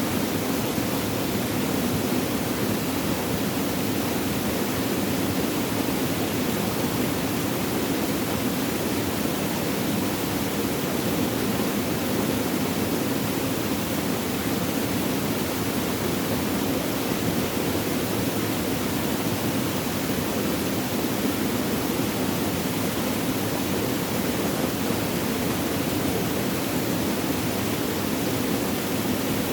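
Flowing water, a steady, even rushing with no breaks or changes.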